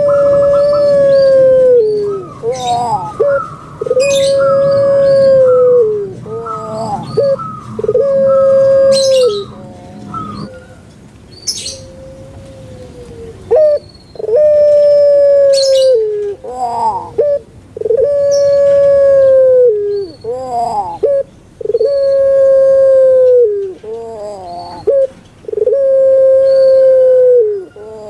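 Puter pelung dove (Streptopelia risoria) cooing: a string of long, drawn-out notes held on one pitch and dropping at the end, each led in by short rising notes, with a pause of a few seconds about ten seconds in.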